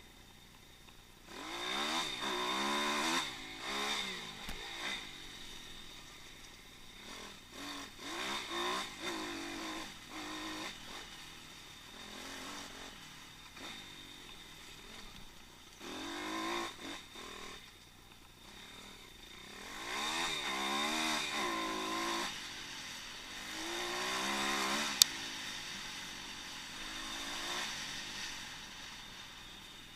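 Pit bike engine revving up and down in repeated throttle bursts, dropping back to a lower steady note between them. A single sharp click near the end.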